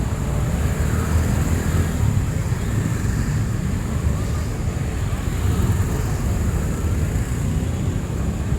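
City street ambience: a steady low rumble of traffic, with a thin steady high whine above it.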